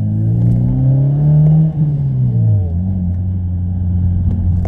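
2004 Mazda 6's 1.8-litre four-cylinder engine accelerating with a gutted muffler, its note rising, then the revs falling away about two seconds in before it settles into a steady low drone. The drone comes from the muffler having been emptied without an exhaust valve.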